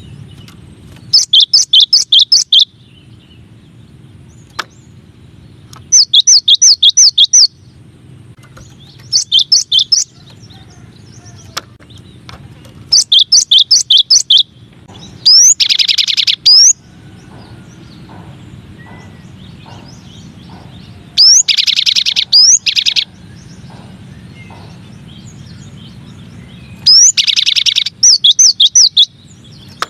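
Cinereous tit (gelatik batu) singing: short phrases of rapidly repeated high, sharp notes, each phrase about a second and a half long, coming every few seconds over a low steady hum. A few phrases start with a quick rising sweep and a denser trill.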